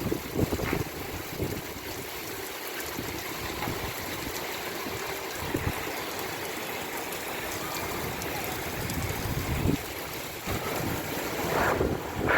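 Heavy rain falling steadily in strong wind, with gusts buffeting the microphone near the start and more strongly near the end.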